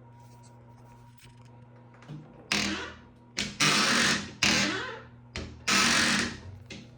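WD-40 aerosol sprayed in about five short hissing bursts, each starting sharply and tailing off, to lubricate a rusty, noisy door hinge.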